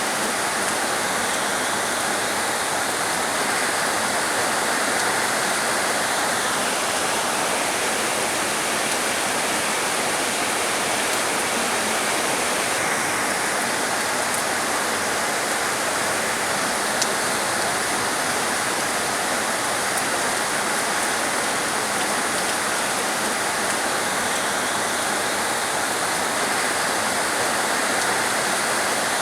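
Heavy rain falling as a dense, steady hiss, with no single drops standing out.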